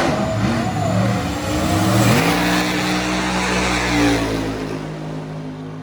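A car engine accelerating hard, its pitch climbing, dropping with an upshift about two seconds in, then holding high and fading away as the car pulls off into the distance, typical of a drag-strip run.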